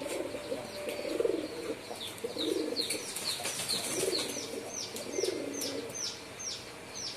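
Domestic pigeons cooing in four or five low, rolling bouts of about a second each. A small bird chirps throughout, giving quick high downward-sliding notes at about two to three a second.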